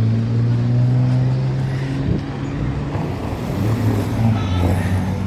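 A motor vehicle's engine running close by, a steady low hum that fades briefly about three seconds in and then comes back.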